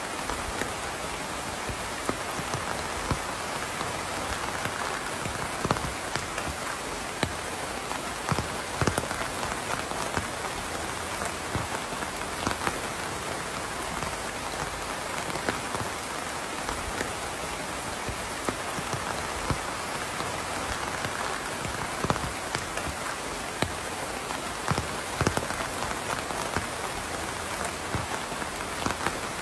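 Steady rain falling, with individual drops landing in sharp, irregular taps.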